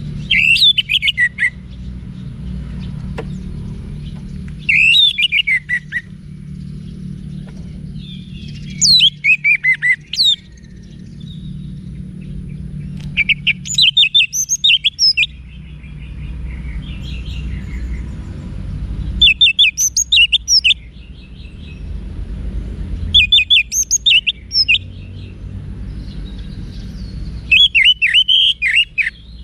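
Orange-headed thrush singing: seven short phrases of rapid, sliding whistled notes, one about every four seconds, over a steady low hum.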